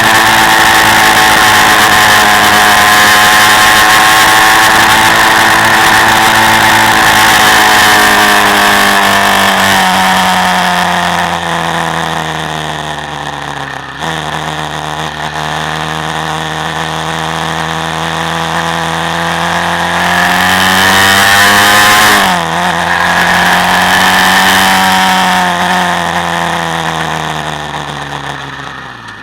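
Quad bike engine under way, held at high revs and then dropping in pitch as the throttle eases. Revs fall suddenly about halfway, climb again, break sharply once more, and fall away near the end.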